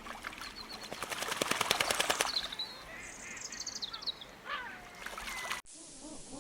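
Birds: a rapid rattling run of sharp strokes, about ten a second, lasting under two seconds, followed by a short series of high chirps falling in pitch.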